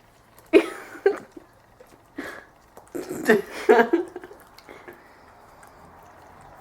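Short wordless vocal sounds from a person: brief pitched bursts about half a second in and again around three to four seconds in, with quiet between.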